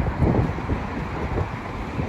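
Wind buffeting the microphone: a gusty low rumble that swells and eases irregularly.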